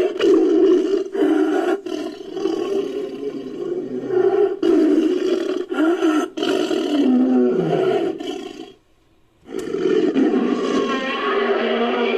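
Big-cat-style roaring from a made-up blue tiger creature: one long roar that falls in pitch near its end, a brief silence about nine seconds in, then a second roar.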